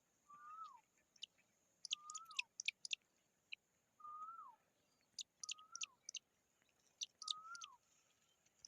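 A bird calling: five short whistled notes, each rising briefly and then dropping, about one every second and a half, with quick runs of sharp high chips or clicks between them.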